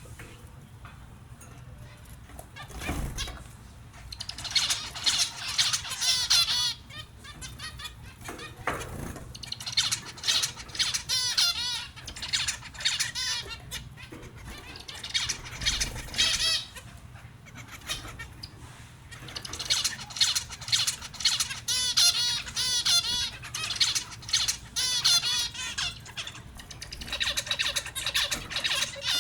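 Small finches twittering in repeated bouts of rapid, high chirps, with short pauses between bouts and a few low thumps.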